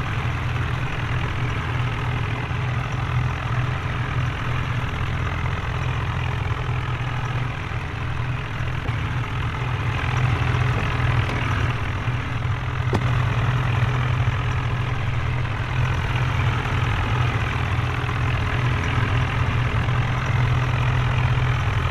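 Modified tractor engine running steadily at low revs, getting a little louder about halfway through.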